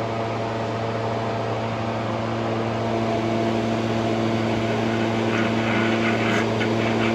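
A machine running steadily with a constant-pitched hum, getting a little louder about three seconds in, with faint light ticking near the end.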